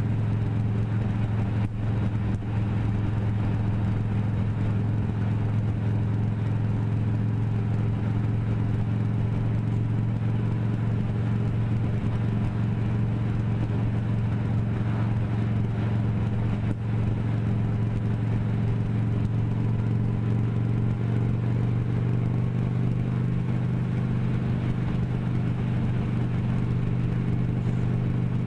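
Motorcycle engine running at a steady, even pitch while riding, with no revving or gear changes.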